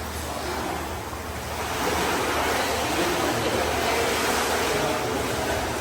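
Shower water running in a steady rush, getting louder about two seconds in.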